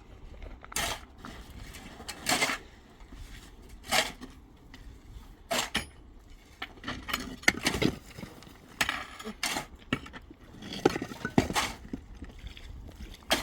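Irregular sharp knocks and clinks of hard tools or materials being handled and struck, about a dozen spread unevenly, some ringing briefly like metal.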